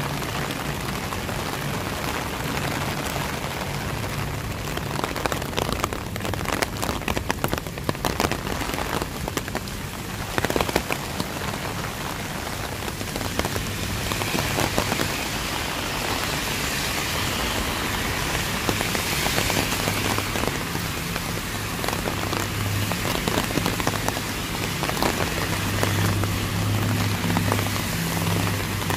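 Rain falling steadily and pattering on surfaces, with a low steady hum underneath that grows louder in the last few seconds.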